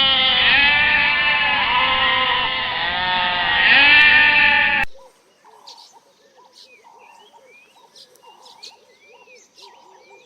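Loud, overlapping bleating from several animals, with the calls bending up and down in pitch. It cuts off abruptly about five seconds in, leaving a faint run of short repeated calls with higher chirps over them.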